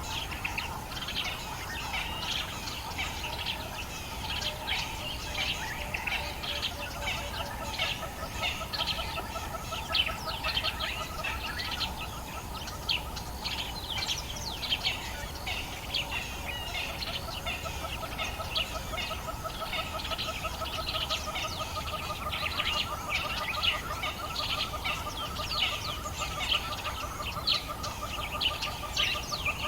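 Dawn chorus of many birds in the African bush, a dense overlapping mass of short chirps and calls, with a steady pulsing trill at two lower pitches running beneath it from about five seconds in.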